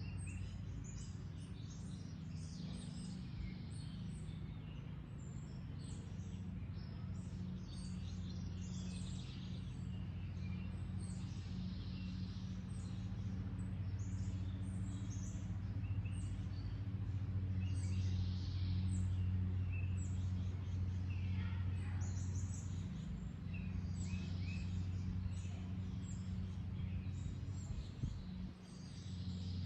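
Wild birds chirping in many short, repeated calls over a steady low hum, which grows a little louder in the middle.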